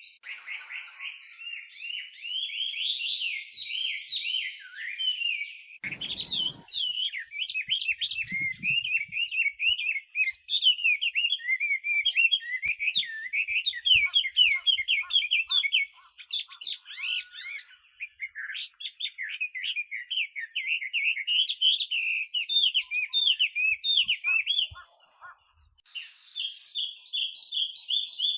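Chinese hwamei (melodious laughingthrush) singing a long, rapid run of varied whistled phrases, with a few short pauses. There is a brief low thump about six seconds in.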